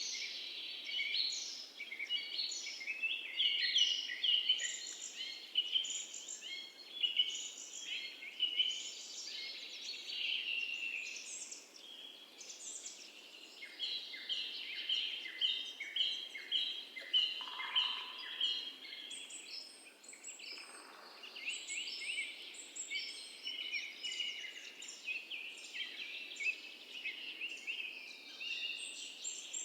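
Chorus of small birds chirping and twittering, many short high calls overlapping without a break.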